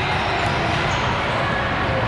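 Steady din of a large indoor hall during a ball-game match: crowd noise with the thumps of balls mixed in and no single voice standing out.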